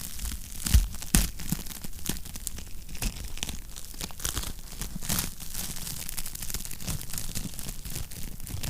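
Wood fire crackling in a fireplace: a steady run of small snaps and ticks, with two louder pops about a second in.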